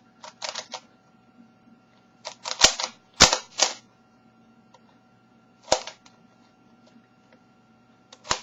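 Sharp plastic clicks and clacks from a speedcube being handled and turned, in short bursts of quick clacks about half a second to a second and a half long, with quiet gaps between; the loudest knocks are a little under three seconds in.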